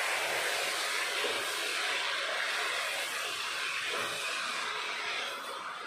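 Chopped cabbage and potato sizzling in hot oil in a pot as they are sautéed and stirred with a wooden spatula: a steady hiss.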